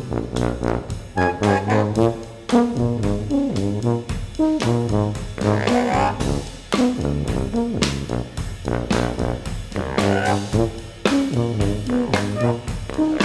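Jazz brass ensemble of trumpets, baritone saxophone and tuba playing with keyboards and drums, the horns moving through short notes over a steady drum beat.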